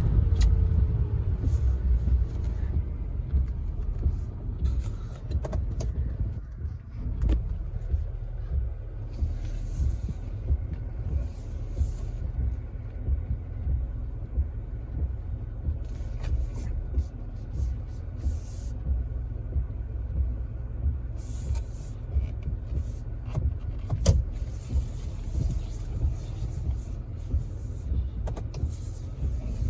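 Heavy-duty pickup truck running, a steady low rumble heard from close by, with occasional faint hissing.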